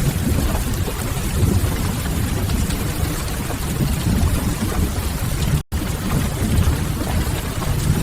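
Steady rain ambience: a dense, even wash of noise that is heaviest in the low end. It cuts out to silence for a split second about five and a half seconds in.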